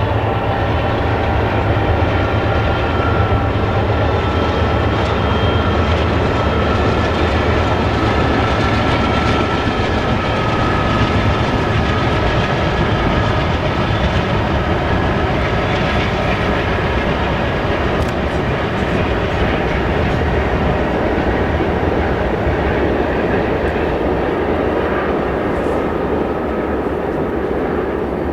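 A long freight train passing, a steady rumble of wheels on rail.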